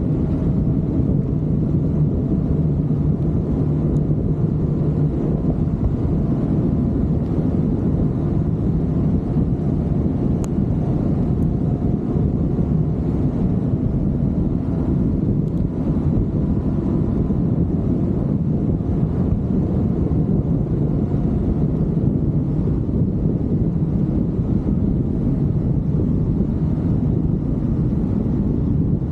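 A vehicle engine running at a steady drone, with wind noise on the microphone.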